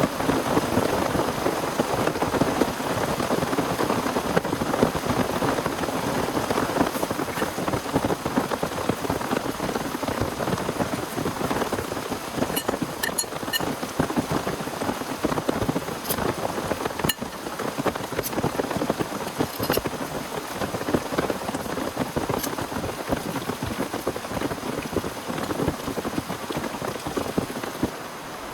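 Heavy rain beating steadily on a surface close by, a dense crackle of drops with a few sharper drop clicks in the middle.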